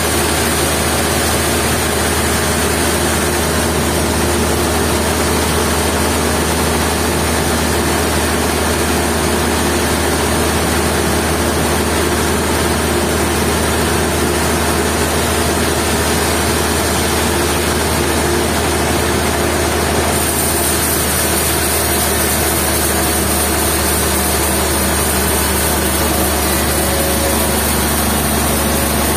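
Sawmill machinery running steadily with a constant low hum and a dense, even noise, without breaks or sudden knocks.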